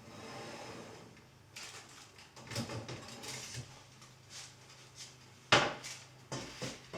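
Household objects being handled and set down: a run of light knocks and clatters, the loudest about five and a half seconds in.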